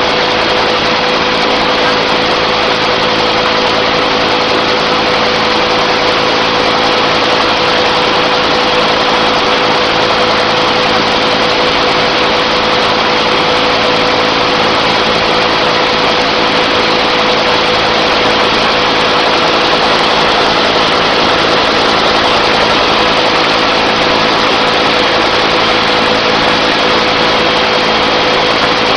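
Helicopter engine and rotor noise heard from inside the cabin in flight: a loud, steady drone with a constant whine.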